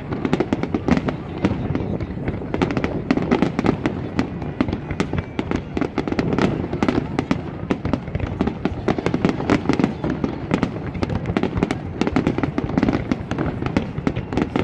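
Fireworks display going off in a dense, unbroken volley: many sharp bangs and crackles each second over a steady deep rumble of booms.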